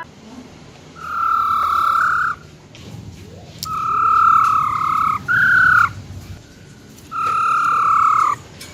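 Female black-throated laughingthrush giving her 'ro ro' calls: four long, level notes, each about a second long, the third shorter, higher and falling at its end.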